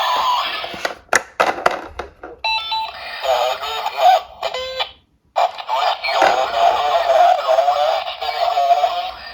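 Toy police car's electronic siren and sound effects: wavering siren tones with short beeping sequences, interrupted by a few sharp clicks and a brief break about five seconds in.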